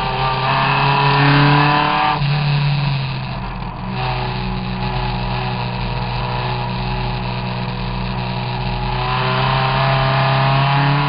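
Triumph TR3S tribute race car's engine heard from the open cockpit, running hard under load. There is a brief break in the note about two seconds in, and the pitch climbs again near the end as the car accelerates.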